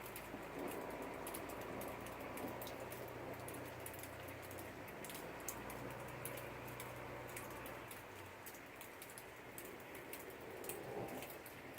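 Rain in a thunderstorm: scattered raindrops tapping irregularly on a hard surface over a steady patter. A low steady hum underneath fades out about eight seconds in.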